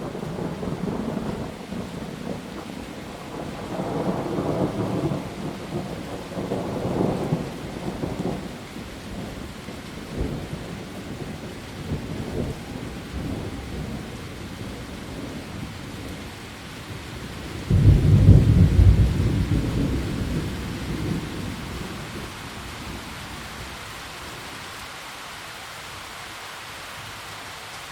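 Steady rain with thunder rolling several times in the first eight seconds. A sudden loud clap of thunder about eighteen seconds in rumbles away over the next few seconds, leaving only the steady rain.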